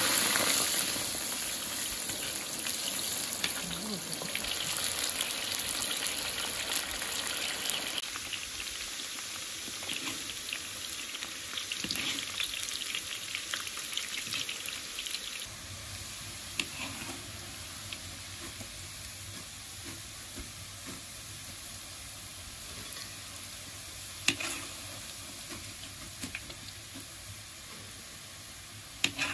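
Eggplant strips deep-frying in hot oil in a cast-iron kazan: a dense sizzle, loudest at the start and slowly quieting as they cook. A metal skimmer stirs through the oil, with a few sharp knocks in the second half.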